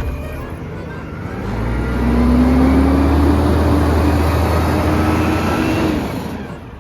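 Garbage truck's diesel engine revving up and running loud for about four seconds with a slowly rising whine, then dying away near the end.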